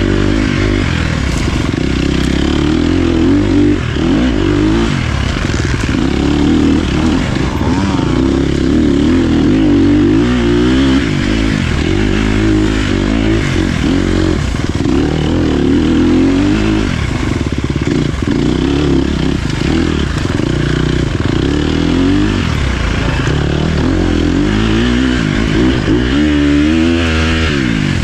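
Dirt bike engine running loud and close, its revs rising and falling over and over as it is ridden off-road, with no let-up.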